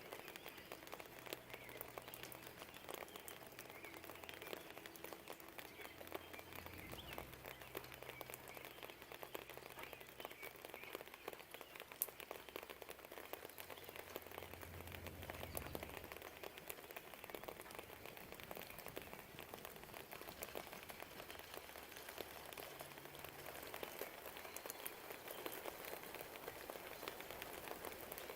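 Light rain pattering, with scattered drips ticking and one sharper drip about halfway through. A low distant rumble swells and fades around the middle.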